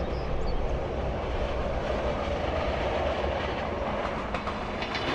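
Passenger transit train running along the track: a steady rumble and rush of wheels on rail that swells a little about halfway through.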